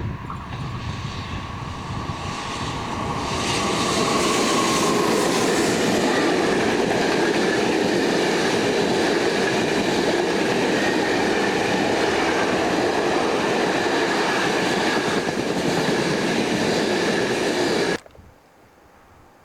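A train running by on the rails, getting louder over the first few seconds and staying loud until the sound cuts off suddenly near the end.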